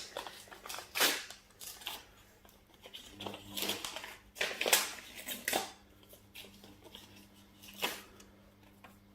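Paper envelope being torn open and a card handled: irregular short tearing and rustling sounds, loudest about a second in, in the middle and near the end.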